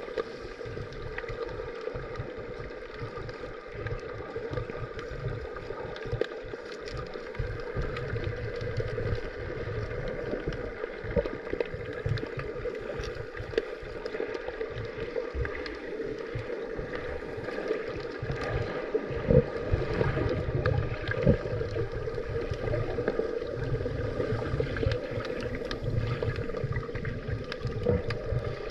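Underwater sound picked up by a GoPro in its waterproof housing during a scuba dive: a steady hum with an uneven low rumble and scattered faint clicks.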